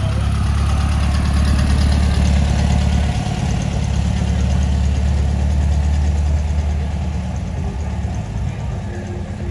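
Car engine idling steadily with a deep, low rumble, getting a little quieter over the last couple of seconds.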